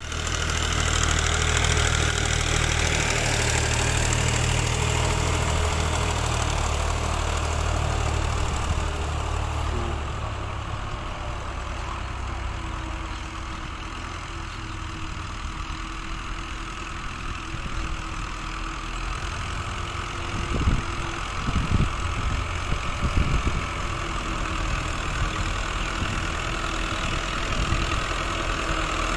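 Fiat tractor's diesel engine running steadily while working a rear blade. Its deep low note eases off about ten seconds in, and a few sharp thumps come about two-thirds of the way through.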